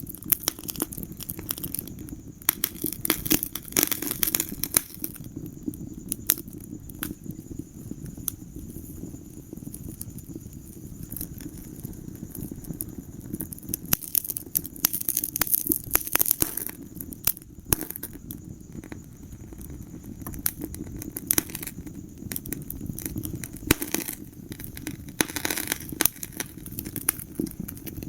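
Wood fire burning in a fireplace: a steady low rumble of flames with frequent sharp crackles and pops, bunching into quick clusters at times.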